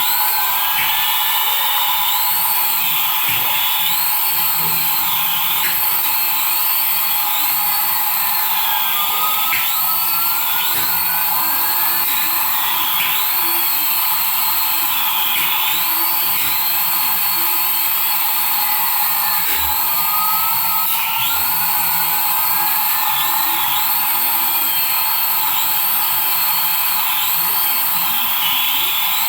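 A battery-powered toy's electronic sound effects through a small speaker: high-pitched tones that keep sweeping up and arching over about once a second, with slower rising glides underneath.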